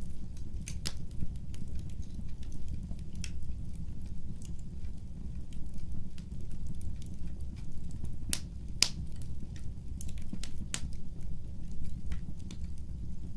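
Wood fire burning: a steady low rumble of flames with irregular crackles and snaps, several sharper pops in the second half.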